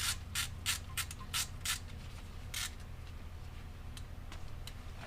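Ratchet clicking in short strokes as the Allen bolt holding a wheel speed sensor is backed out: about seven quick clicks in the first two seconds, then a few scattered fainter ones.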